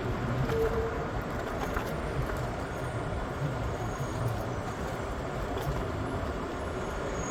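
PATH train running with a steady low rumble, with a short whine about half a second in.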